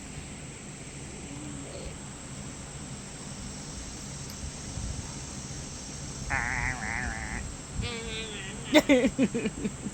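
Insects, likely crickets, chirring steadily. About six seconds in, a wavering, bleat-like call lasts about a second, and voices follow near the end.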